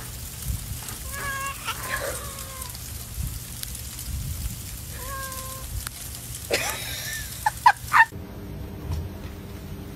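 An animal calling several times over a steady background hiss: pitched calls that fall in pitch, then a rising call and a few short, loud, sharp cries shortly before a clip change about eight seconds in.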